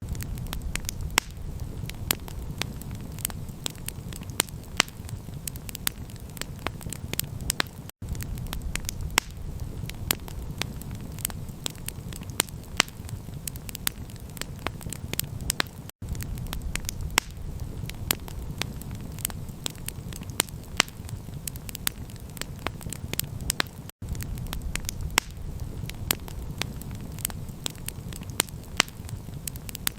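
Campfire crackling: many sharp pops and snaps over a steady low rumble of flame. The sound drops out for an instant every eight seconds.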